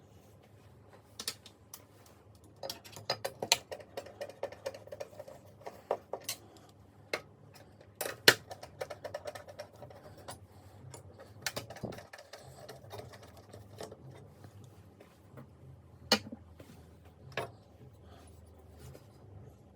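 Irregular clicks and light clattering of small hard objects being handled, over a steady low hum.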